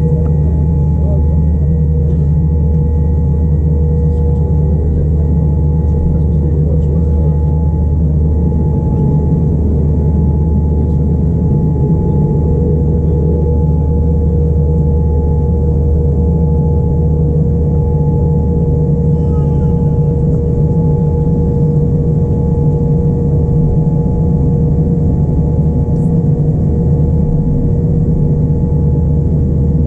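Boeing 787-9 cabin noise: a steady, loud rumble of the Rolls-Royce Trent 1000 engines and airflow heard from inside the cabin, with two steady hums running through it.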